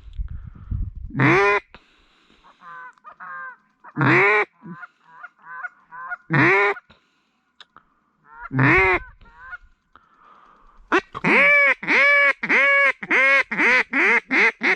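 Loud waterfowl calling: single drawn-out honking calls a couple of seconds apart with softer short calls between, then a fast, even run of about eight calls near the end.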